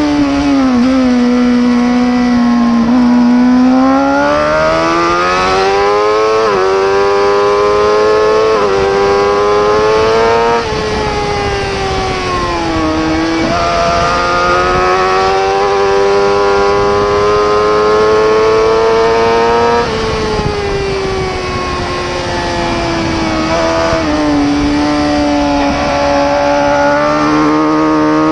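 Racing superbike engine at high revs, pulling hard and climbing in pitch with quick breaks as it shifts up. It eases off twice, falling in pitch as it slows for corners, then winds back up.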